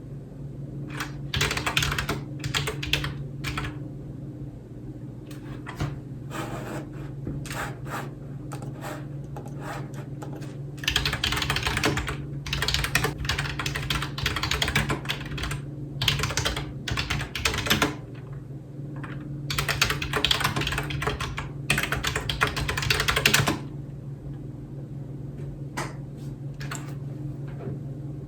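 Computer keyboard typing in runs of rapid keystrokes with short pauses between, thinning to a few single key presses near the end. A steady low hum runs underneath.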